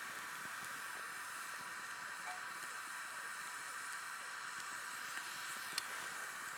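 A steady hiss, with a few faint clicks and one sharper tick near the end.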